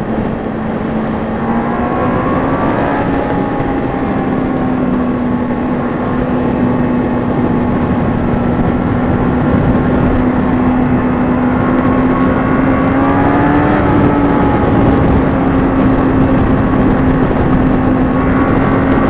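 Honda CBR600RR inline-four engine running under way with a heavy rush of wind over it; the engine pitch climbs as the bike accelerates about two seconds in and again around thirteen seconds in.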